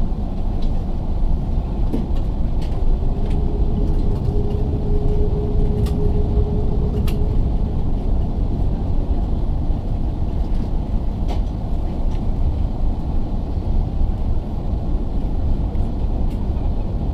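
Airbus A380-861 cabin noise heard from a passenger seat on the ground before takeoff: a steady low rumble, with scattered light clicks and rattles and a faint steady tone from about three to seven seconds in.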